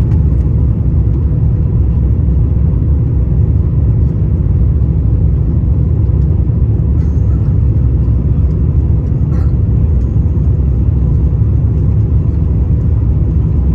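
Steady low rumble inside an Airbus A350-900 passenger cabin: its Rolls-Royce Trent XWB jet engines and the airflow around the fuselage, running evenly and loud.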